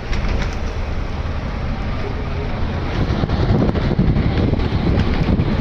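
Wind buffeting the microphone on a moving motorcycle, over steady engine and road noise, growing a little louder about halfway through.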